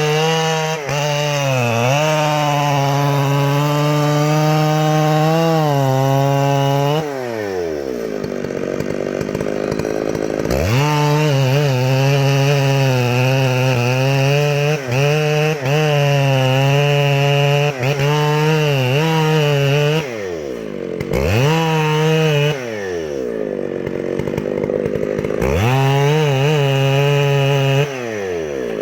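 Chainsaw run at high revs with the pitch wavering as it cuts. Several times it drops back toward idle and then revs up again.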